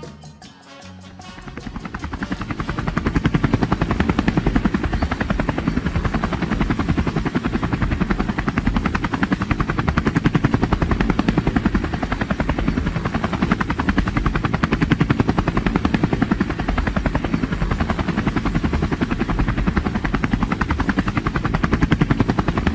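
Helicopter rotor chop: a fast, steady throbbing pulse that builds up over the first couple of seconds, then holds.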